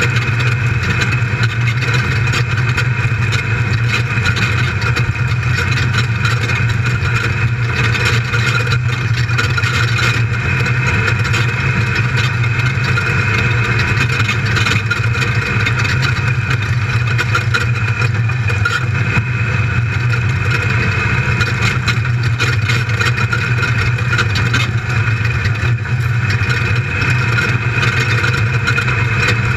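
Built LS1 V8 engine of an off-road race buggy running steadily at racing speed, heard from inside the cockpit.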